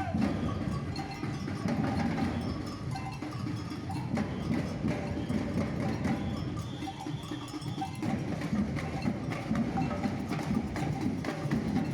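Samba band percussion playing: drums with a bell or cowbell part.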